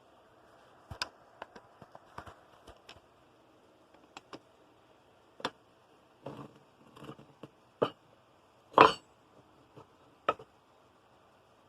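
Scattered light clinks and knocks of hard objects being handled, about a dozen spread unevenly, the loudest about nine seconds in, over a faint steady hiss.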